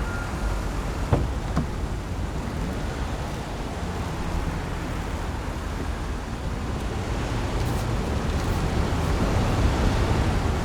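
Steady road traffic noise, with one sharp click about a second in, growing a little louder near the end.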